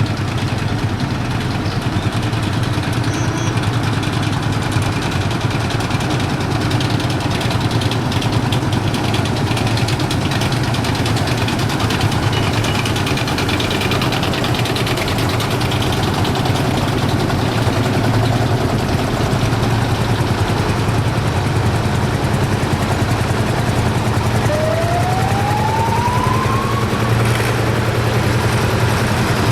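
Engines of veteran vehicles running steadily, with a low, even engine hum throughout. About 25 seconds in, a short tone rises in pitch for two or three seconds.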